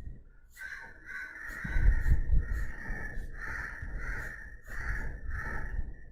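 Pencil shading strokes scratching on paper, a run of short back-and-forth strokes that settles to about two a second in the second half.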